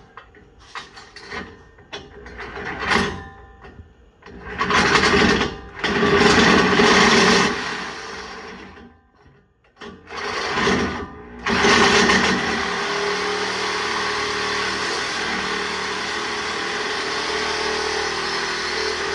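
A power tool runs in short loud spells at the truck's exhaust, then steadily for several seconds, after some scattered clicks and knocks of work on the metal.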